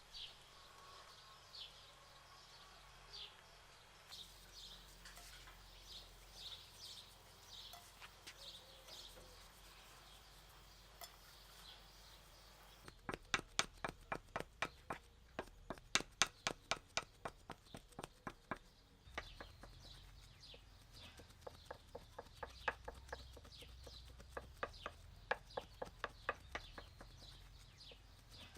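Small birds chirping repeatedly. About halfway through, a fast, even run of sharp taps or knocks sets in for about six seconds, then lighter, quicker taps continue.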